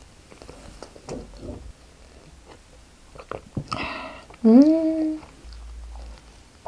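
Quiet mouth sounds of chewing soft cream bread. About four and a half seconds in comes a short closed-mouth "mmm" hum that rises and then holds, just after a brief breathy sound.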